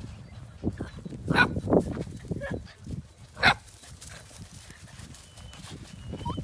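Small puppies giving a few short, sharp yips and barks, the strongest about a second and a half in and again about three and a half seconds in, with scuffling noise in between.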